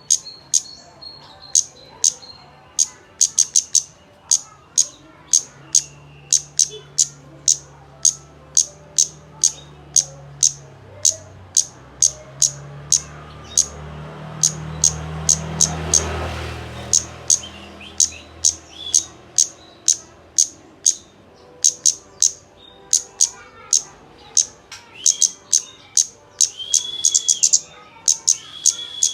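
Kemade bird chirping on and on: short, sharp, high chirps at about two a second, with a few lower, rounder calls near the end. This is a lure recording of the kind played to get a caged kemade to start singing. A low rumble swells and fades over the middle.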